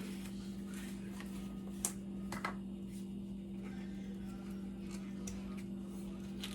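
A steady low electrical-sounding hum, with two light clicks about two and two and a half seconds in.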